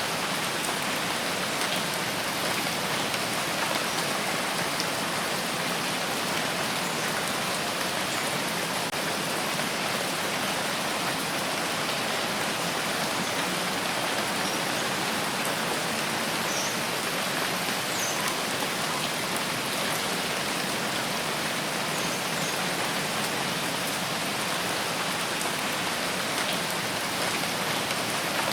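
Steady rainfall, an even dense hiss of rain falling on a surface with faint scattered drop ticks.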